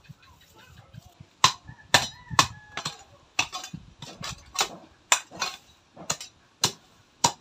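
Hammer blows, about a dozen sharp strikes at roughly two a second, starting about a second and a half in and stopping near the end.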